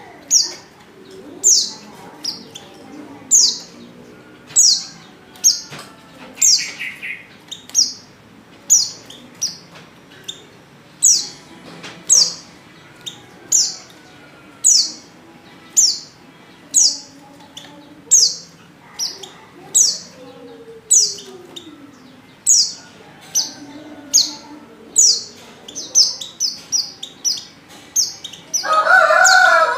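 Female white-eye (pleci) calling: short, high, falling chirps repeated about once a second, coming faster near the end; the calls of a female in breeding condition, used to lure males. Near the end a louder, lower-pitched bird call breaks in.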